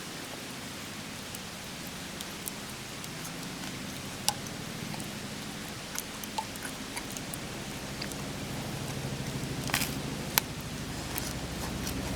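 Wood campfire burning with a steady hiss and a low rumble that builds toward the end, broken by a few sharp crackling pops.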